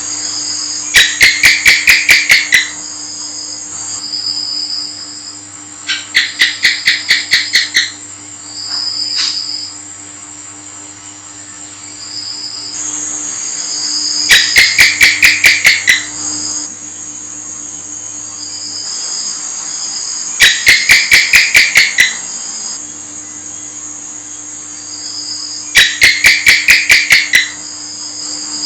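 House gecko (cicak) calling: five bursts of about eight rapid, evenly spaced chirps, a burst every five or six seconds. A steady high-pitched drone with short high chirps runs underneath.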